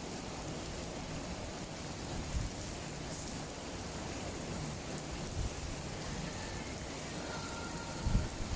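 Steady rain falling, an even hiss of drops on surfaces. Near the end a few louder low rumbling bumps come in.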